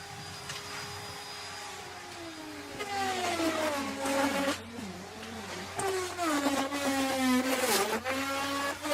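Electric wood router running at high speed and cutting into wood. Its whine drops in pitch several times as the bit loads up in the cut, then climbs back as it frees.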